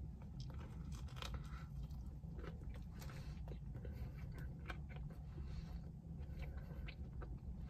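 A person biting into and chewing a soft tortilla wrap close to the microphone: irregular small mouth clicks and smacks over a low steady hum.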